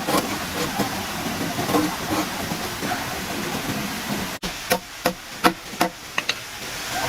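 A steady hiss-like noise, then after an abrupt cut a rapid run of sharp knocks, about three a second, like a hammer striking wood.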